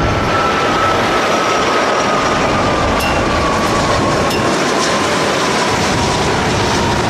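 Toy cargo jet plane's electronic sound module playing a recorded jet-engine roar: a loud, steady rush of noise with a faint whine that slowly falls in pitch.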